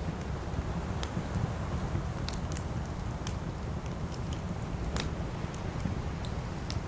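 Campfire burning: a steady low rumble of flames with scattered sharp crackles and pops from the burning wood, the loudest pop about five seconds in.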